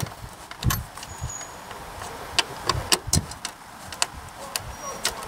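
Irregular sharp clicks and light knocks of small metal and plastic parts being handled, as the license plate comes off the car's front bumper.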